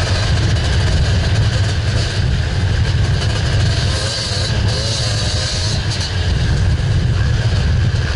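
Dirt bike engine running steadily under the rider, its note wavering slightly, over heavy low wind rumble on a helmet-mounted action camera's microphone.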